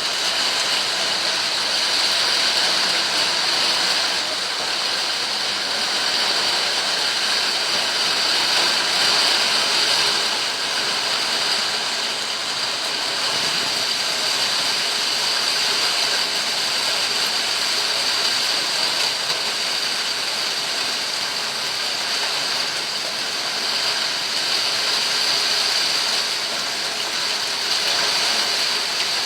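Steady rain falling, an even hiss that holds without pause.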